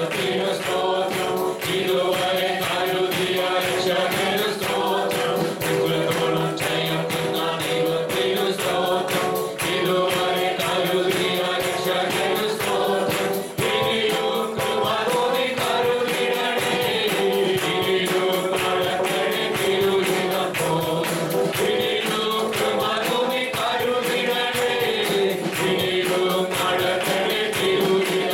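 Live praise and worship song: a group of voices singing together over music, with a quick, steady percussive beat.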